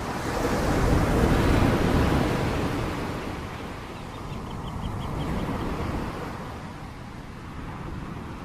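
Steady rain noise. About half a second in it swells louder and deeper for a couple of seconds, then settles back to a steady wash.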